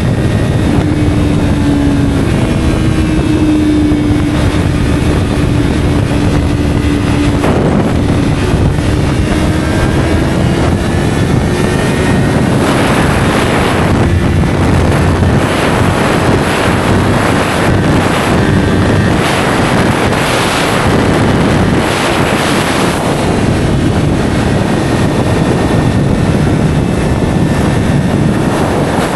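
Yamaha R3A motorcycle's parallel-twin engine running through an SC-Project slip-on exhaust under way, its note slowly climbing in pitch. From about halfway through, wind rushes and buffets the microphone over the engine.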